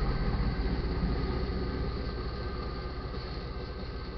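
The tail end of a Herzog slot train rolling past on the track, its wheels rumbling and the sound fading steadily as the last car moves away.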